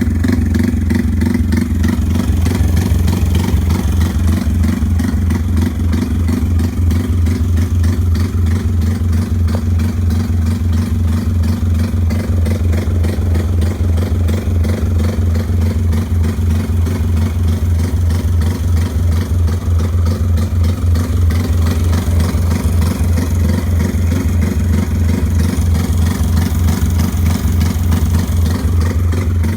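Honda MSX's small single-cylinder four-stroke engine running steadily at an even speed, a dense stream of firing pulses with little change in pitch.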